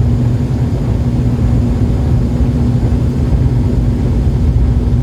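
Small airliner's engines running steadily, heard from inside the passenger cabin as a loud, even drone with a steady hum.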